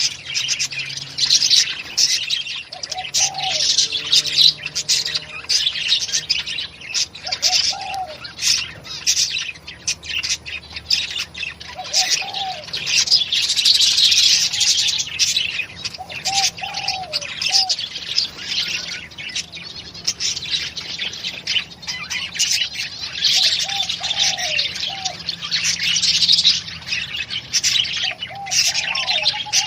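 Many small birds chirping densely and without pause. A lower, arched call repeats every four seconds or so through it.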